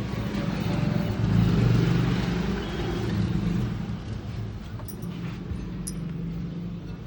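A motor running with a steady low hum, swelling to its loudest about one to three seconds in and dying down after about four seconds.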